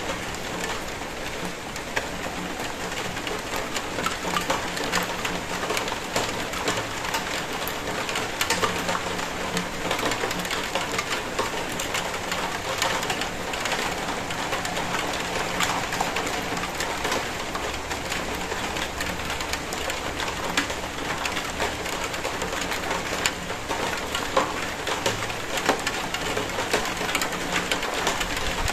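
Steady rain falling, with many separate drop hits heard close by.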